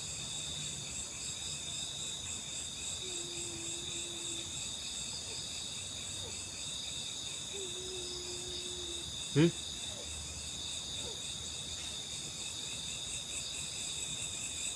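Crickets and other night insects chirring steadily in several high, even layers. Two faint drawn-out low tones sound partway through, and one brief loud sound comes about nine seconds in.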